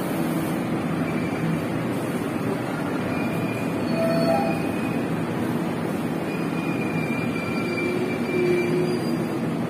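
Passenger train carriages rolling slowly past along a station platform: a steady rumble of wheels on the rails, with faint high-pitched squeals coming and going.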